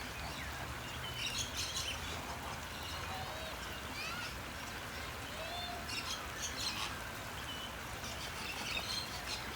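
Birds chirping, with clusters of short high twittering calls coming every two or three seconds.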